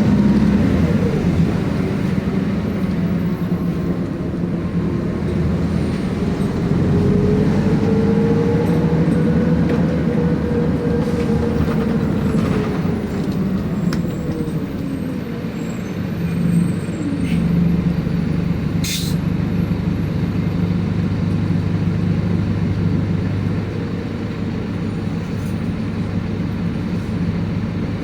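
City bus (colectivo) running in traffic, its engine and drivetrain humming steadily, with a whine that rises and falls in pitch over several seconds and a short hiss about two-thirds of the way through.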